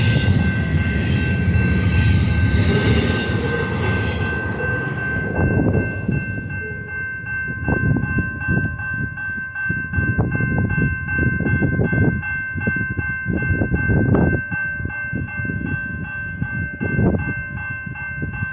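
Freight train rolling past: a dense rushing roar for the first five seconds or so, then heavy irregular clunks of wheels over the rail, with steady high ringing tones held throughout.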